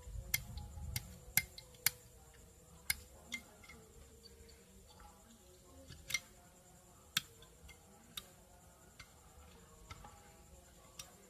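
Irregular sharp clicks and light taps, about a dozen, as a tool and small metal parts of an electric iron's thermostat are handled and cleaned.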